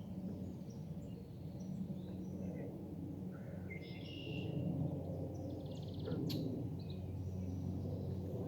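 Outdoor ambience with birds chirping: a few short, rapid trilled calls about halfway through, over a steady low background noise.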